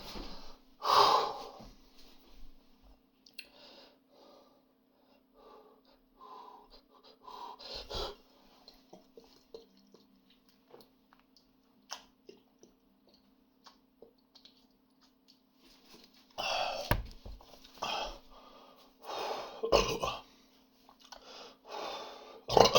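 A man chugging beer: gulping swallows and breaths at the mouth, with louder gasping breaths between drinks in the last several seconds.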